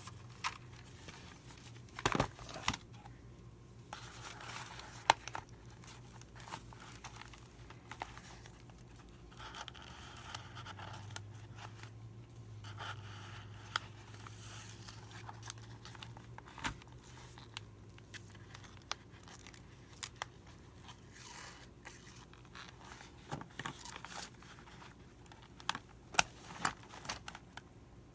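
Hands working on a hand-bound journal's binding: paper and cover rustling and scraping, with scattered sharp clicks and taps.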